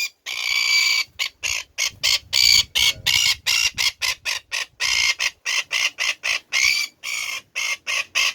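Red-billed tropicbird calling in a rapid series of high-pitched screeches, short notes about two or three a second with a few longer drawn-out ones between them.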